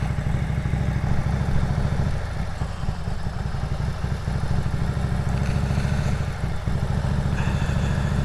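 Motorcycle engine running steadily under way, a low, even engine note with road and wind noise over it.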